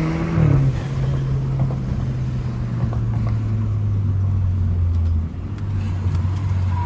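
BMW F30 328i's turbocharged 2.0-litre four-cylinder engine running at low, steady revs while driving; the revs drop about half a second in, then hold, dipping a little lower near the end.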